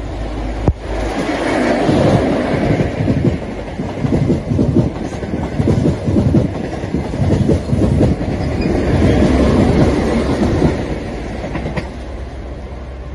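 A Great Western Railway High Speed Train passing close at speed beside a freight train of hopper wagons, its Mark 3 coaches' wheels clattering rapidly over the rail joints. The sound swells about a second in and eases off near the end as the train passes.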